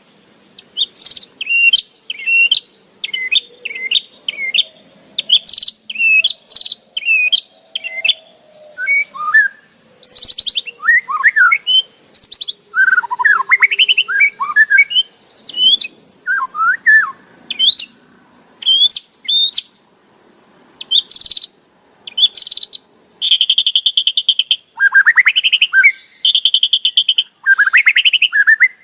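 White-rumped shama calling in a rapid run of short, sharp chirps and sweeping notes, then harsh buzzy rattles near the end. This is the kretekan call used to provoke and rile rival shamas.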